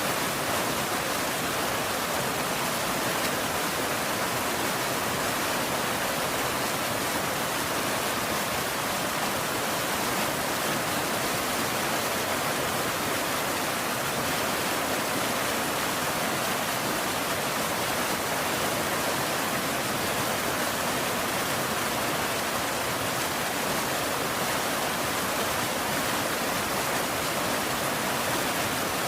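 Steady rain falling, an even unbroken wash of noise with no separate drops or thunder standing out.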